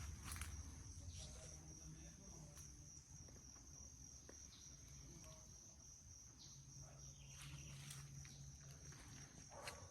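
Faint, steady high-pitched chorus of insects such as crickets, with a few soft rustles or footsteps.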